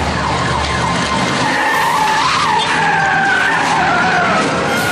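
A car's tyres screeching in a long, wavering skid as it swerves and slides out of control, starting about half a second in.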